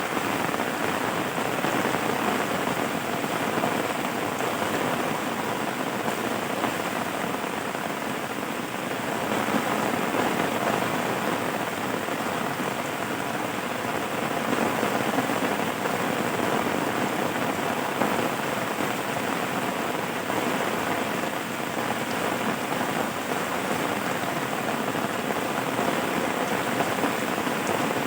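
Rain falling steadily, an even hiss of drops that holds at the same level throughout.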